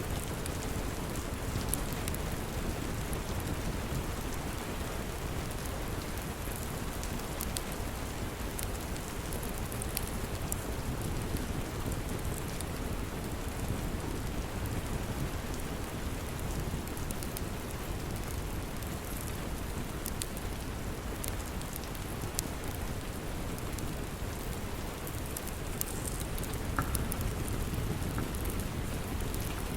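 Steady rain with a deep low rumble underneath, and scattered sharp ticks throughout.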